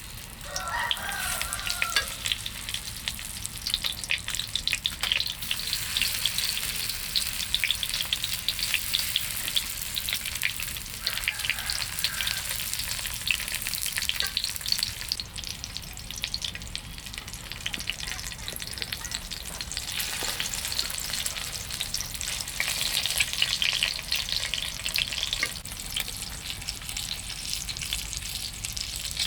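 Food frying in hot oil in a pan, a steady crackling sizzle with many small pops.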